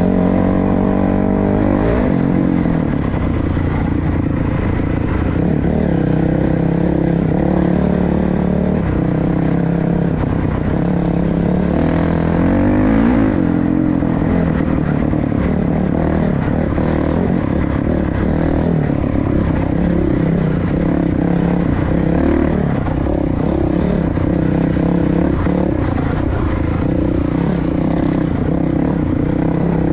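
Honda dirt bike engine running while riding, its speed rising and falling with the throttle.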